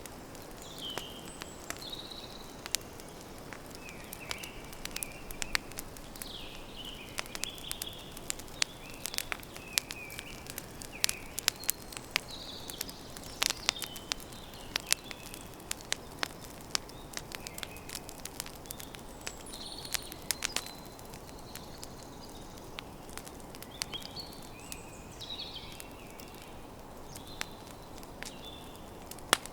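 Campfire crackling, with frequent sharp pops and snaps over a steady low rush, while small birds chirp in short calls.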